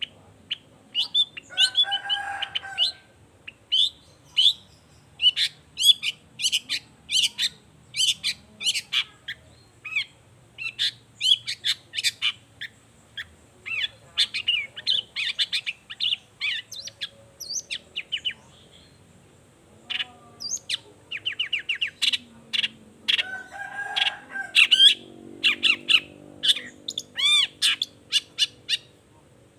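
Long-tailed shrike (cendet) singing a fast, varied run of short sharp chirps and whistles, with two harsher rasping notes about two seconds in and near twenty-four seconds.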